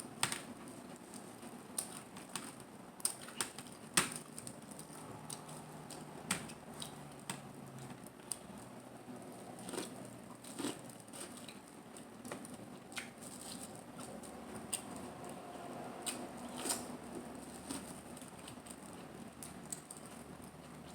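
Close-miked eating sounds: chewing and mouth smacks with irregular sharp clicks and snaps, a few stronger than the rest.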